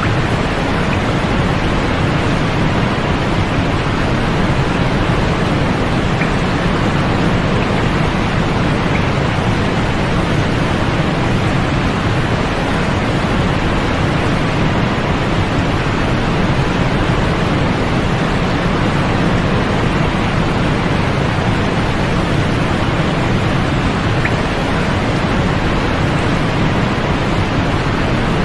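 Steady sleep noise: an even, unbroken hiss weighted toward the deep end, with little above the upper mid range and no change in level.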